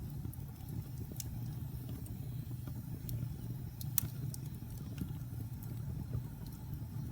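Log fire burning in a fireplace: a steady low rumble of flames with scattered sharp crackles and pops from the burning wood, the loudest pop about four seconds in.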